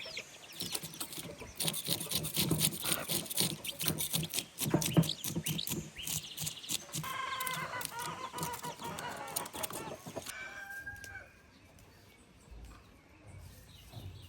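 Domestic chickens calling, with one drawn-out rooster crow about seven seconds in. Underneath runs a busy clatter of knocks and scratches that stops after about eleven seconds.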